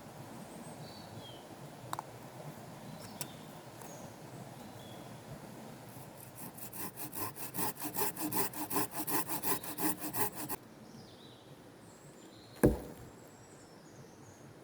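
Wood being sawn by hand in quick, even rasping strokes for about four seconds in the middle, then a single sharp knock.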